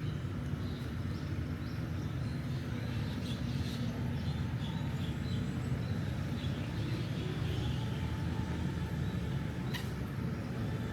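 Steady low rumble of a running vehicle engine, with faint high chirps over it.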